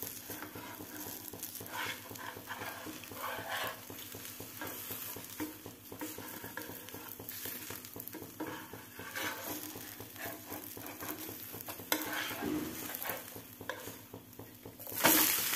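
Egg dosa frying in oil on a hot dosa pan: a steady, light sizzle with small crackles, and a brief louder rush of noise near the end.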